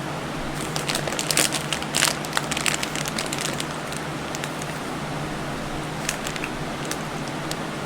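Crisp crunching of a chocolate-coated pretzel being chewed: a quick run of sharp crunches in the first few seconds, then a couple of single crunches later, over a steady background hum.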